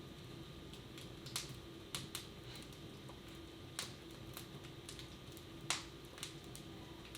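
Wood fire in a fireplace crackling: a few sharp, irregular pops over a steady low background hum, the loudest pop near the end.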